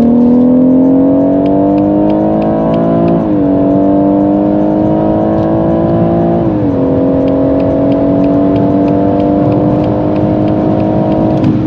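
BMW M140i's turbocharged 3.0-litre B58 straight-six, fitted with an HJS 300-cell downpipe and Akrapovič slip-on exhaust, pulling hard in a full acceleration run from about 100 to 190 km/h, heard from inside the cabin. The engine note climbs steadily and drops twice at upshifts, about three and six and a half seconds in.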